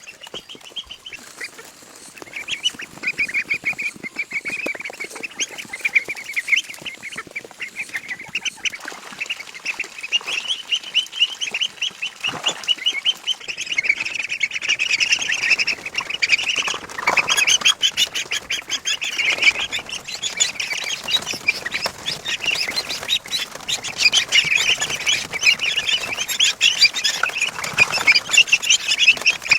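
A flock of poultry calling all at once, a dense, unbroken chatter of short quacks and peeps that grows fuller after a couple of seconds.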